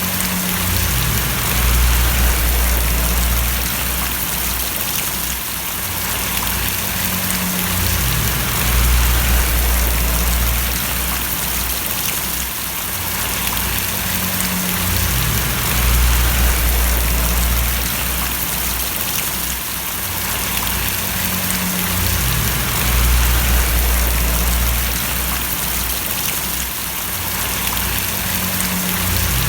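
Steady rain splashing down as a dense, even hiss, with a low rumble underneath that swells and eases back about every seven seconds.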